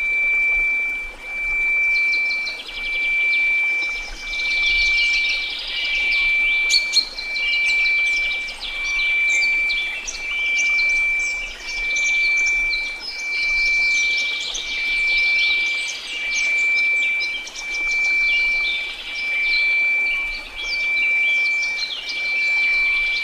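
A steady 2334 Hz synthesized tone that swells and fades about every second and a half, over soft white noise, with many birds chirping in short, high calls above it.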